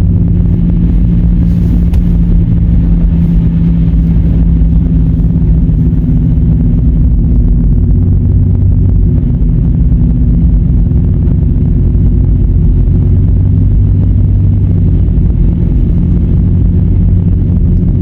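Car engine running steadily with a deep rumble of the moving car, heard from inside while driving through snow. A lower hum grows stronger about eight seconds in and eases off near the end.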